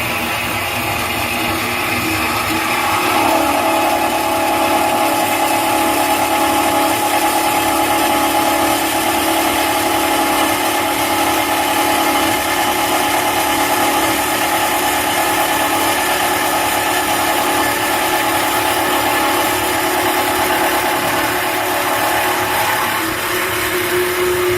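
WK-275SHP band saw running and cutting through 4 mm stock: a steady machine hum, with a held, even whine from the blade in the cut from about three seconds in until near the end, when the tone changes.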